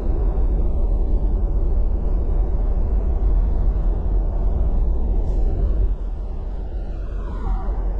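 Toyota Hilux GUN125's 2.4-litre four-cylinder turbodiesel running under way with tyre and road rumble, a steady low drone that eases off about six seconds in.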